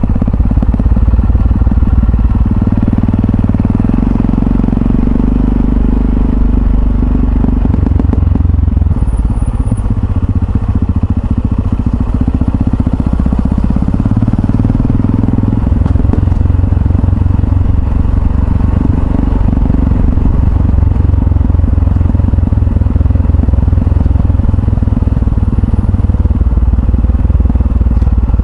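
Yamaha XT660Z Ténéré's single-cylinder engine running at a steady, even pace on the move.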